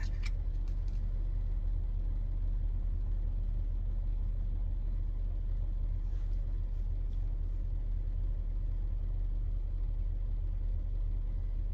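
Steady low rumble heard from inside a car cabin, typical of the car's engine idling, with a few faint ticks.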